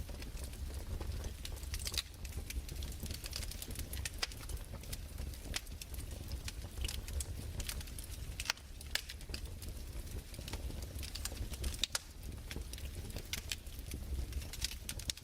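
Fireplace crackling: irregular sharp pops and snaps, several a second, over a steady low rumble.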